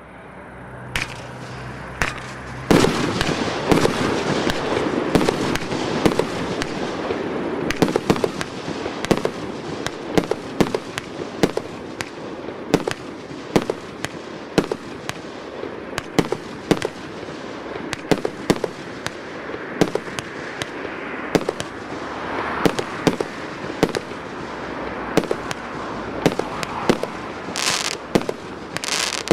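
A 36-shot, 30 mm consumer fireworks cake firing: after a quieter hiss with a couple of pops, shot after shot goes off about every half second to second over a continuous hiss and crackle, with a burst of brighter crackling near the end.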